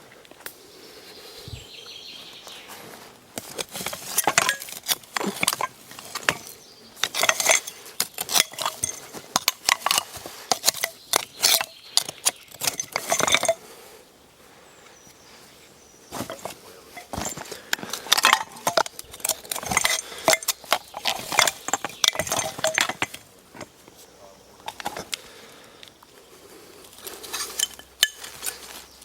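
Hard metal objects clinking and clattering against one another as they are handled, in three spells of rapid sharp clanks separated by quieter pauses.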